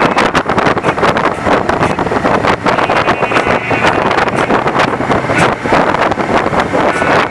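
Loud wind buffeting the microphone of a rider moving at speed downhill, a steady rushing roar that flutters constantly.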